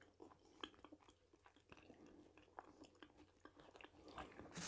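Faint chewing of a soft zucchini fritter close to a clip-on microphone: scattered small mouth clicks, with a brief louder sound near the end.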